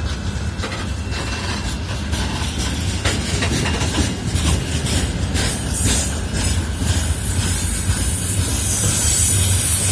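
Freight train rolling past with a steady low rumble and wheels clicking over rail joints. A thin, high wheel squeal comes in about halfway through, and a hiss swells near the end as the sound grows louder.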